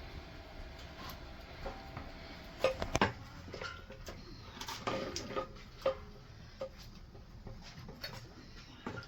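Kitchen utensils and dishes knocking and clinking in scattered, irregular strikes, loudest in a quick cluster about three seconds in and another run around five seconds in.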